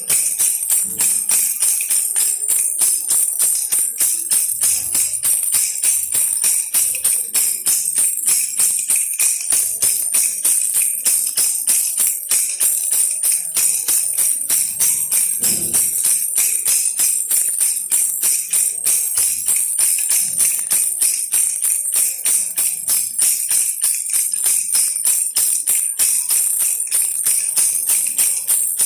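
Baby rattle shaken in a steady rhythm, giving a bright, jingling rattle several times a second throughout.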